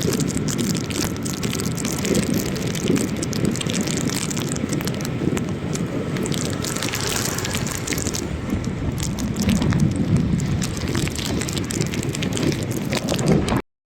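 Steady rushing noise with uneven low rumbling, cutting off abruptly near the end.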